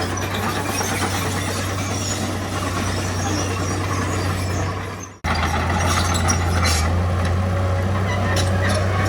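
Heavy diesel earthmoving machinery running steadily with a low engine hum. The sound dips and cuts out for an instant about five seconds in, then comes straight back.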